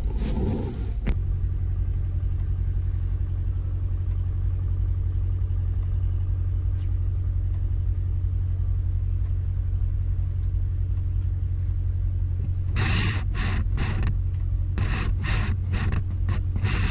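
A steady, loud, low motor drone with an even hum that does not change in pitch.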